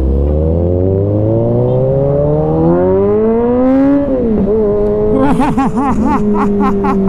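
Kawasaki Z900RS inline-four engine through an Arrow exhaust, accelerating with its pitch rising steadily for about four seconds. Around four seconds in the pitch drops at a gear change, and the engine then pulls on at a roughly steady note.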